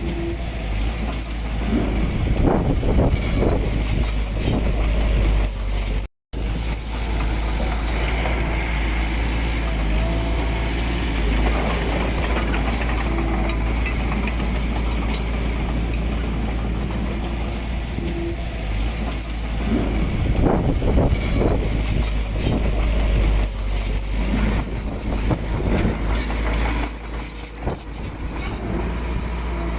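Komatsu D20P bulldozer's diesel engine running steadily under work, with stretches of clattering about two seconds in and again around twenty seconds in. The sound cuts out for a split second about six seconds in.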